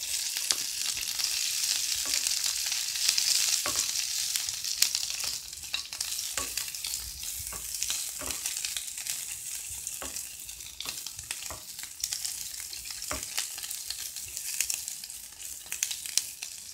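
Chopped green and red peppers sizzling as they hit hot oil in a nonstick frying pan, the sizzle starting suddenly. A wooden spatula scrapes and taps the pan as they are stirred. The sizzle is loudest for the first few seconds and then eases a little.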